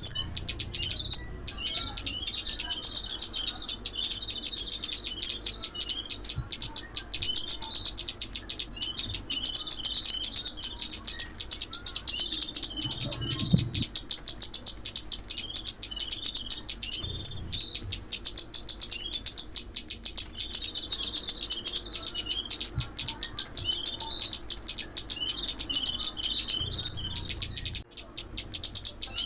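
Recorded call of the small songbird known in Vietnam as chim ốc mít: a dense stream of rapid, high-pitched chirps and twitters, repeating without a break. It is a lure call played to draw the bird into a trap.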